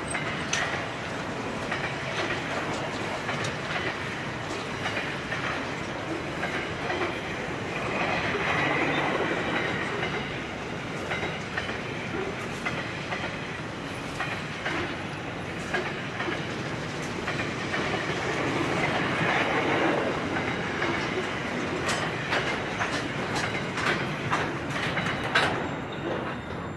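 Freight train boxcars rolling past, the wheels clicking over the track in a steady clatter with frequent sharp clicks. The last wagon goes by near the end and the noise drops away.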